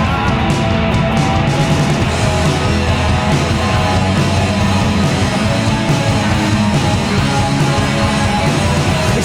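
Live rock band playing an instrumental passage between vocal lines: loud, dense electric guitar over bass and drums.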